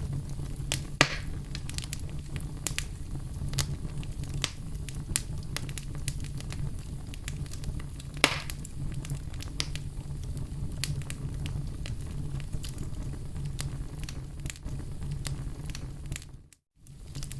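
Wood fire crackling in a fireplace: a steady low rumble of flames with frequent sharp pops, two louder ones about a second in and about eight seconds in. The sound drops out briefly near the end.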